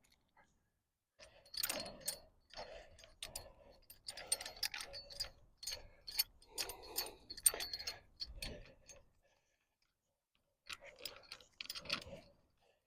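Light metallic clicks and clinks of wrenches on a steel turnbuckle and cable hardware as the tree brace is tightened, in irregular clusters, with a pause and then a shorter cluster near the end.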